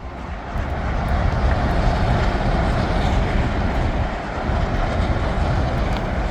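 A train passing close by: a loud, steady rushing rumble of wheels on rails that swells in over the first second and begins to ease near the end.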